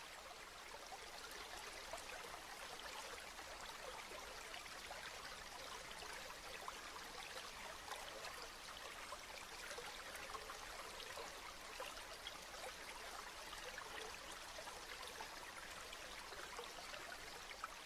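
Steady rain falling, a continuous patter of many small drops with scattered sharper drip ticks.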